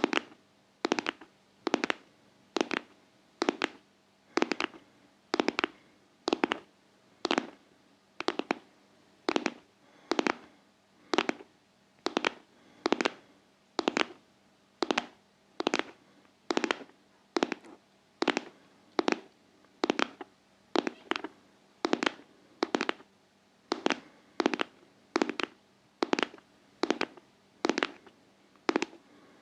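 Close-miked ASMR tapping: sharp, crisp taps repeating in a steady rhythm, a little under two a second.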